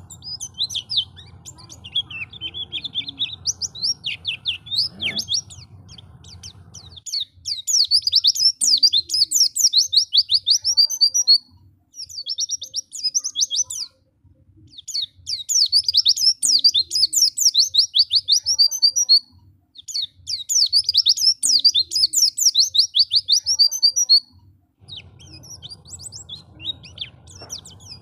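White-eye (pleci) singing: long runs of fast, high-pitched twittering chirps, each run a few seconds long with short pauses between them. A faint low hum sits underneath during roughly the first quarter and again near the end.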